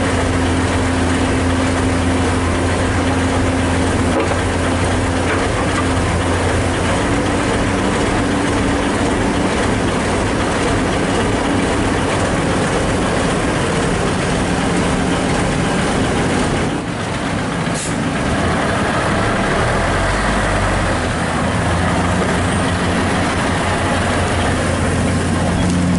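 Komatsu excavator's diesel engine running steadily at a loud level, its pitch shifting a few times, with a short dip about two-thirds of the way through.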